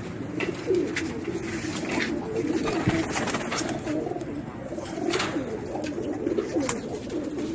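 Domestic pigeons cooing continuously, several birds overlapping, with occasional sharp clicks among them.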